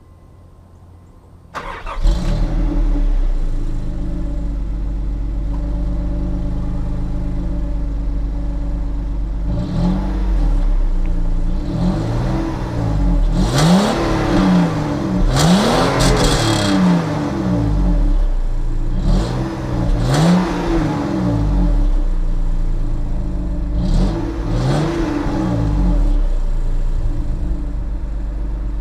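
Nissan Pathfinder engine starting about a second and a half in, then idling through its stock exhaust with the muffler still on. It is revved several times: once around ten seconds in, a run of quick revs in the middle, and two more later.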